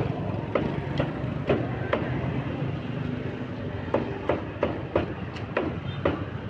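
Meat cleaver chopping on a chopping board: repeated sharp strikes, roughly two a second and a little uneven, over a steady low hum.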